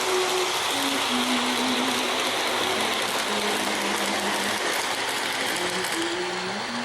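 O-gauge model train running on its track: a steady mechanical clatter. A slow melody of held notes plays underneath.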